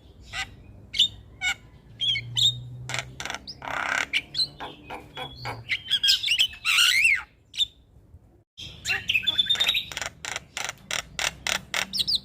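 Javan myna calling: a rapid string of sharp clicks and harsh squawky notes mixed with short whistled glides, broken by a brief gap just after 8 s.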